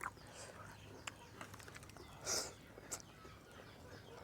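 Quiet outdoor background with a few faint ticks and one brief hissing rustle about two seconds in.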